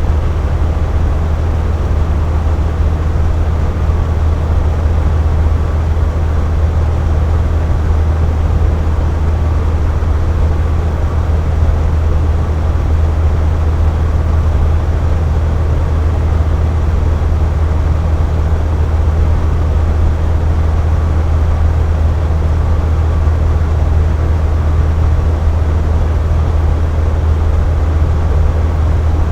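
Box fan running steadily: a constant whooshing drone of moving air, with a strong low hum and even hiss above it.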